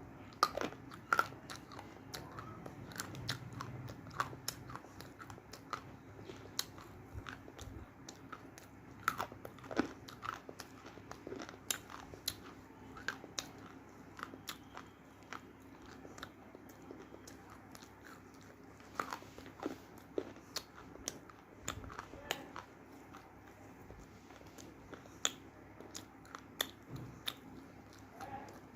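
A person biting and chewing crunchy roasted multani mitti (fuller's earth clay): irregular sharp crunches throughout, some much louder than others.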